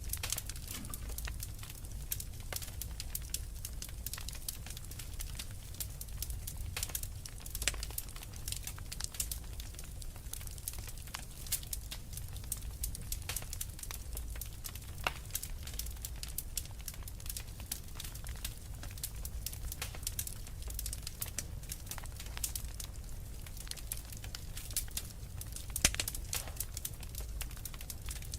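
Wood fire in a fireplace crackling, with frequent irregular sharp pops over a low steady rumble of the flames; one louder snap near the end.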